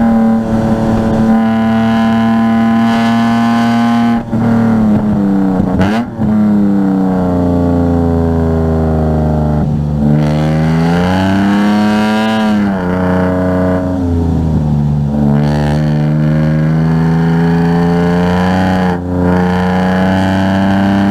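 Car engine running hard at high revs. Its pitch slides down and climbs back up several times through gear changes and lifts, with quick breaks in the sound about four and six seconds in.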